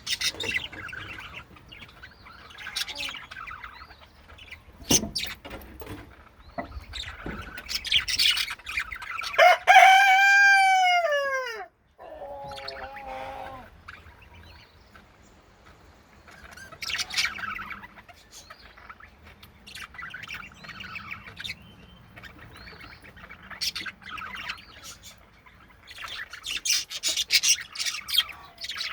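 Pet budgies chirping and warbling in short bursts. About ten seconds in comes one much louder, drawn-out call of about two seconds that rises and falls in pitch, followed by a lower, wavering call.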